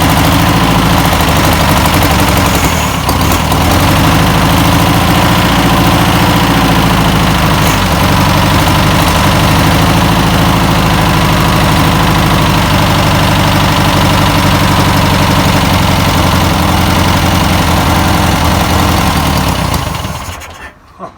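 1962 Volkswagen Type 2's air-cooled flat-four engine running steadily, back in life after sitting for over 40 years, then shutting off about twenty seconds in.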